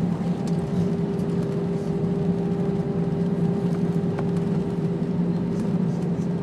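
Airbus A320 cabin noise on the ground just after landing: a steady rumble with a constant two-tone engine hum.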